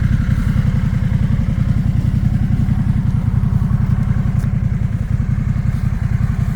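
Harley-Davidson Pan America's V-twin engine running steadily under way, a fast, even low throb.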